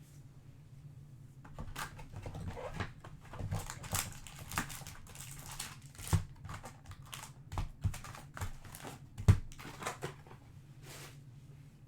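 Trading cards and their plastic sleeves and wrappers being handled on a table: an irregular run of light taps, slides and crinkles, with one sharper knock about nine seconds in.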